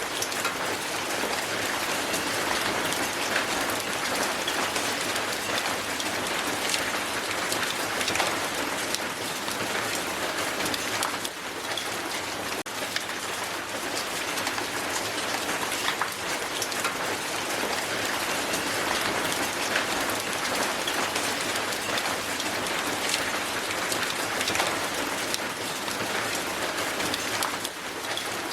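Heavy hail falling on the ground: a dense, steady rattle of countless small ice impacts.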